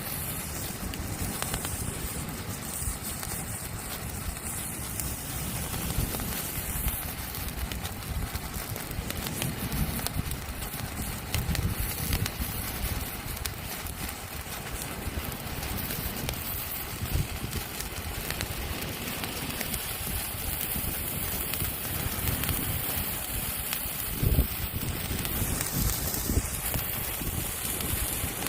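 Hand-held firework burning with a steady hiss and fine crackle, and wind rumbling on the phone's microphone.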